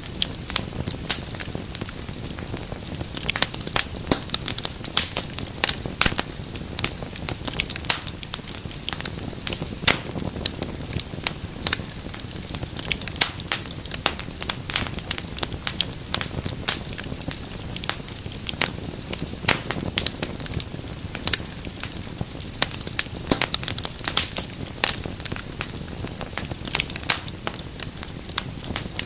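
Wood fire crackling in a fireplace: frequent irregular sharp pops and snaps over a steady low rustle of burning.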